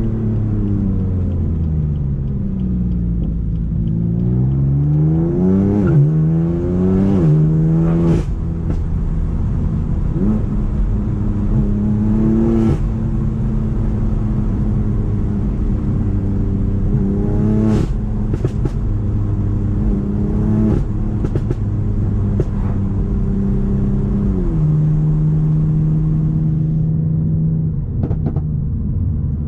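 BMW M4 twin-turbo straight-six running through a decatted Akrapovic exhaust under driving. The revs fall, then climb hard and drop abruptly at a gear change. After that the engine note moves up and down in steps with each shift. Sharp cracks from the exhaust come at several of the shifts.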